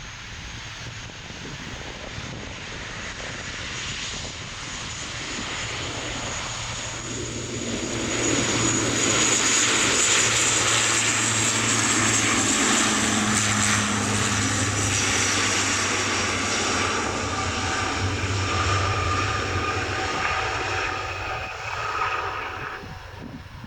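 Airliner's engines passing close by. The sound swells over several seconds, holds loud with a steady low hum and a high whine, then fades away near the end.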